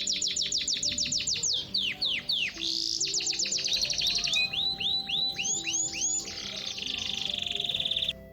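A songbird singing a fast, varied song of repeated high downward-sweeping whistled notes and trills, ending in a rapid buzzy trill that cuts off suddenly near the end. Soft background music with sustained low notes plays underneath.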